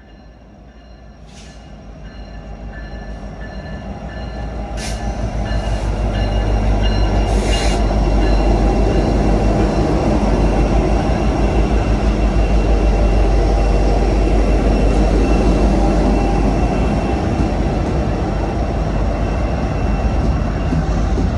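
Norfolk Southern freight train led by an EMD SD70ACe diesel locomotive approaching slowly and rolling past: the low diesel rumble builds over about six seconds, then stays loud as the cars go by, with a faint high wheel squeal and a few clicks from the rails.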